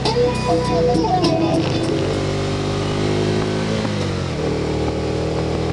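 Can-Am Spyder three-wheeler's engine running steadily under music, its pitch dipping briefly about four seconds in as the rider eases off or shifts.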